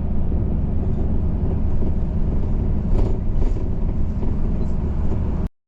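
Steady low rumble of a moving vehicle heard from inside, with a few faint clicks about three seconds in. It cuts off suddenly near the end.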